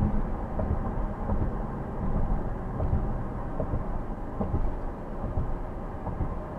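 Road and engine noise heard inside a moving car's cabin, a steady low rumble with a few faint ticks.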